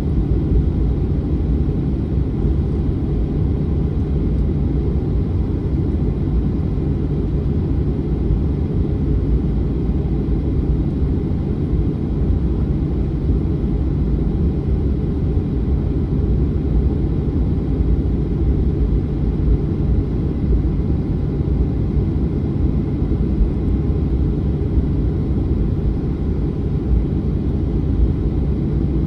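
Boeing 737-900's CFM56 jet engines running steadily at low power, a constant low rumble with no rise in pitch or level.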